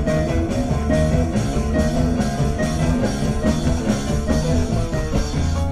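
A rock band playing live, an instrumental passage with electric guitar, bass and drum kit.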